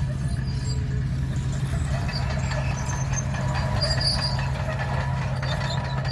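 Komatsu D61 crawler bulldozer's diesel engine running steadily under load, with continual crackling and grinding as the blade breaks up the old bituminous road surface.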